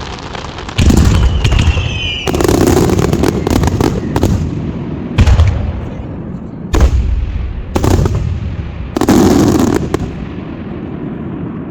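Aerial fireworks shells bursting overhead: about six deep booms a second or two apart, with a stretch of crackling after the second one.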